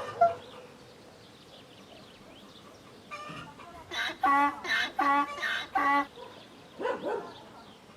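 Domestic fowl calling: a quick run of four short calls, then a single rising call near the end.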